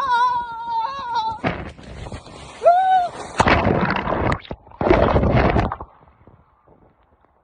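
A voice holds a long, wavering high call that breaks off about a second and a half in, then gives a short rising-and-falling call. Two loud rushes of noise follow, each about a second long, before it goes quiet.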